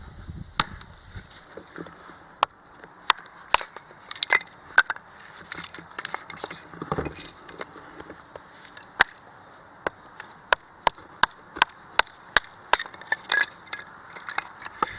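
Sharp, irregular cracks and snaps of wood, some coming several a second, thickest from about ten seconds in.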